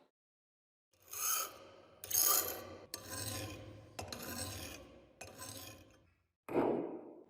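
Hand filing: about five slow rasping strokes, each about a second long, followed by a shorter, lower scrape near the end.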